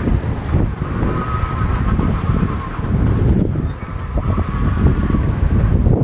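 Heavy, gusting wind buffeting the microphone over the rush of water as a small sailboat runs downwind, surfing on following waves.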